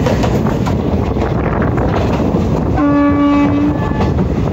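Express passenger train running at speed, heard from an open coach door: wind rushing over the microphone and rumbling wheel-and-rail noise. About three seconds in, the train's horn sounds once, a steady single-pitched blast lasting about a second.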